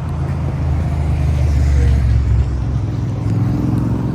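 Motor vehicle running with a steady low rumble that swells about two seconds in and eases again.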